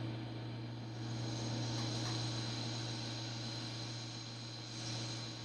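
Steady low electrical hum with a hiss over it, rising slightly about a second in, and one faint click about two seconds in.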